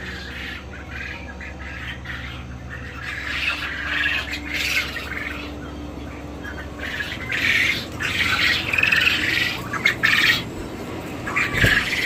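Caged birds squawking in alarm, with bursts of calls that come thicker and louder from about four seconds in: warning calls from birds that are freaking out. A steady low hum runs underneath.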